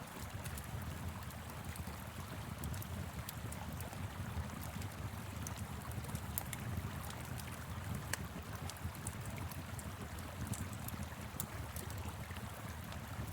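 Steady rush of a flowing river with frequent small crackles and pops from a wood fire burning in a fire pit.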